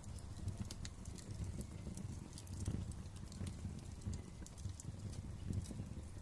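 Wood fire crackling in a fireplace: frequent irregular sharp pops and snaps over a low, steady rumble of the flames.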